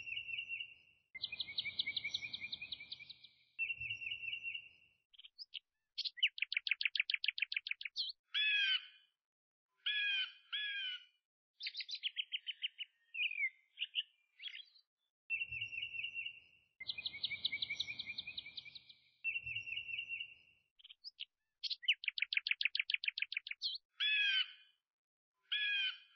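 Birdsong: a run of high chirps, rapid trills and short whistled calls, the same sequence of calls starting over after about fifteen seconds.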